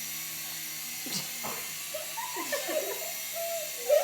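Toy remote-control helicopter's small electric motors buzzing with a steady hum, with a couple of knocks a little after a second in. The hum stops at about two seconds, followed by faint voices.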